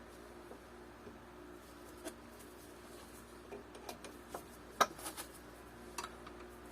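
Scattered small clicks and taps of a little nut and washer being fitted by hand onto a bolt in a plywood bike part. The sharpest click comes a little before five seconds in.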